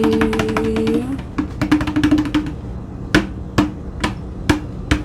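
A drum roll, then evenly spaced single drum hits about two a second.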